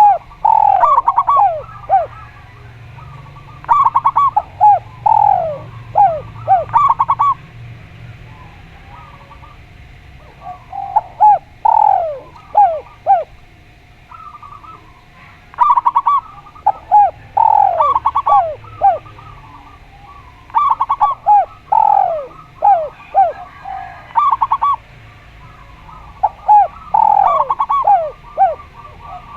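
Doves cooing: loud phrases of several short, falling coo notes repeated in bouts, with gaps of a second or more between them.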